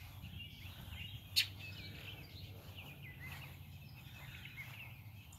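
Several birds chirping and singing, with a steady low hum underneath and one sharp click about a second and a half in.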